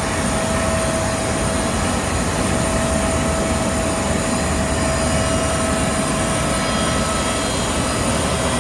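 Airbus A319 turbine noise on the ramp: a steady rumble with a constant whine over it, unchanging throughout.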